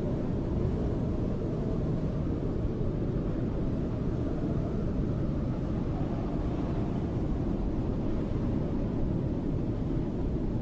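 Snowstorm wind blowing steadily, a deep, low rushing noise with a slight swell about halfway through.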